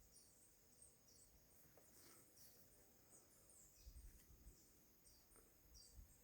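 Near silence outdoors, with faint, high chirping repeated about twice a second, typical of an insect, and a few faint low rumbles near the middle and end.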